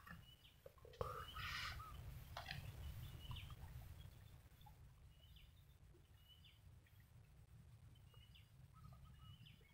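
Faint short bird calls, a high note repeated about once a second, over a low steady rumble. A sharp knock and a brief rustle come about a second in.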